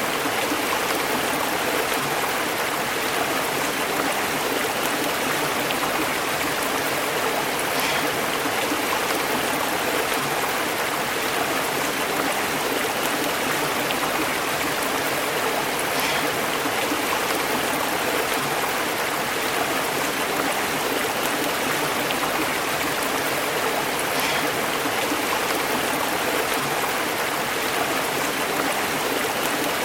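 Stream babbling over rocks: a steady, unbroken rush of flowing water, with a faint tick recurring about every eight seconds.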